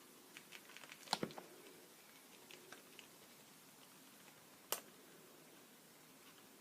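Light clicks and taps of pens and small art tools handled on a work table: a few soft ticks, a sharp double click about a second in and another sharp click near five seconds.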